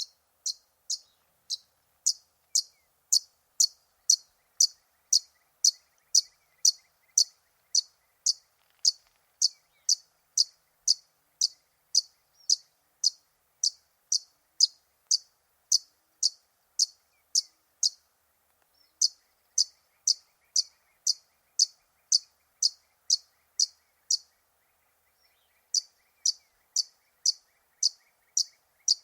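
A bird repeating one short, high call about twice a second in a steady, even series, pausing briefly twice.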